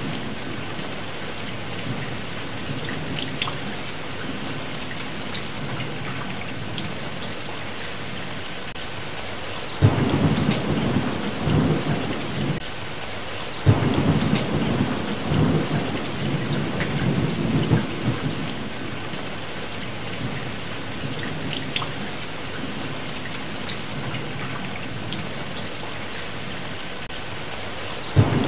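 Steady rain with thunder: a roll of thunder breaks in about a third of the way through, a second follows a few seconds later, and the rumbling fades back into the rain.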